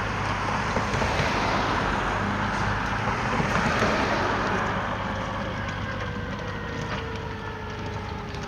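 Fire engine driving past and pulling away, its engine and road noise swelling to a peak about four seconds in, then fading. A faint whine slides slowly down in pitch as it recedes.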